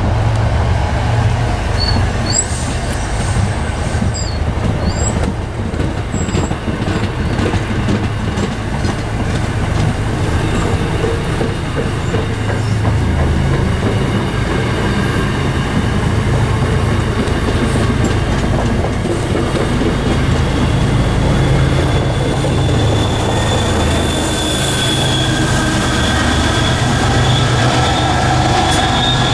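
A train running past with a continuous heavy rumble. High, steady steel-wheel squeal on the rails grows stronger over the last third.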